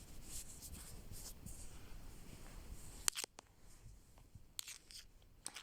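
Faint rustling and handling noises, with a couple of sharp clicks about three seconds in and a few lighter clicks after.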